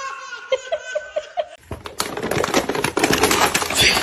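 A person laughing in short, quick pulses, then from a little before the middle a dense burst of clattering and rustling with many sharp clicks, growing louder toward the end.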